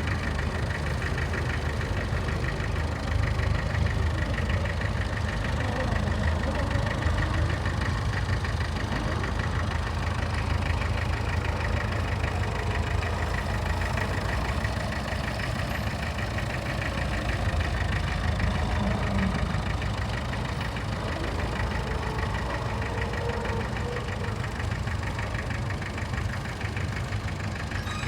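Tractor engine running steadily, with a rapid even beat of firing pulses.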